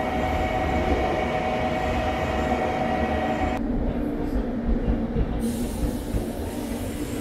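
Train running on rails with a low rumble and a steady whine over it; about halfway through, the whine stops abruptly and the sound changes sharply.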